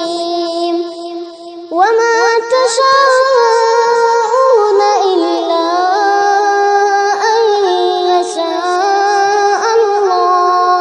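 Wordless vocal music: several sustained voices hold notes and slide between them, dipping briefly about a second in before coming back in strongly.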